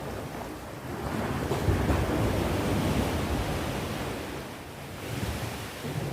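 Ocean waves washing onto the shore, a steady surf rush that swells about a second in and again near the end, with low wind rumble on the microphone.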